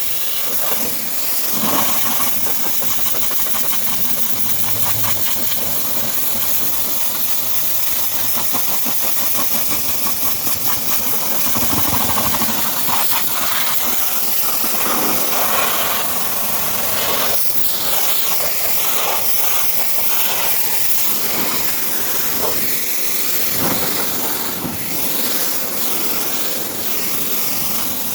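High-pressure washer spray hissing against a car's bodywork, rising and falling as the jet moves across the panels.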